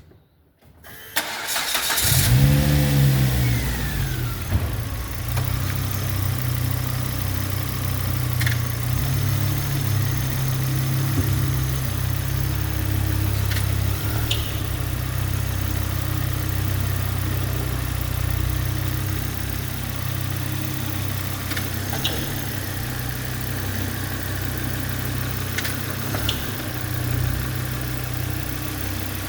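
A 2007 Volvo V70 engine cranks, catches with a short flare of revs, and settles to a steady idle. Over the idle come a few brief clicks or knocks. This is the noise the owner hears on shifting the automatic into Drive or Reverse, and new engine mounts have not cured it.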